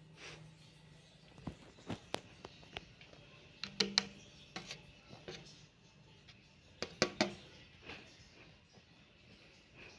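Small Arashi industrial-style ceiling fan running with a faint steady hum, under a scatter of sharp clicks and knocks, the loudest in pairs about four and seven seconds in.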